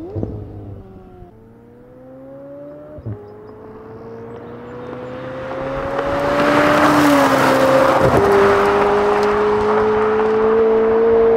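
McLaren 720S twin-turbo V8 with a valved titanium aftermarket exhaust accelerating through the gears. The pitch climbs in each gear and drops at each of several upshifts, with a short loud burst at two of the early shifts, and the sound grows much louder from about halfway through.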